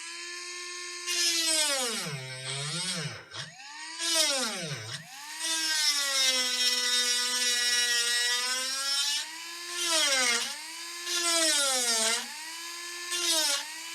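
Small high-speed rotary tool (micro drill) whining as it drills into a shorted laptop motherboard, its pitch dropping and rising again several times as the speed changes.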